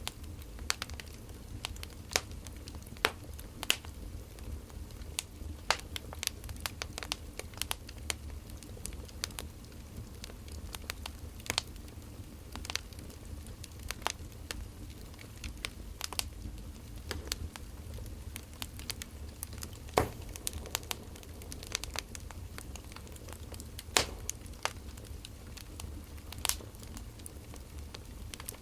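Wood fire crackling: irregular sharp pops and snaps over a low steady rumble, with a couple of louder snaps in the second half.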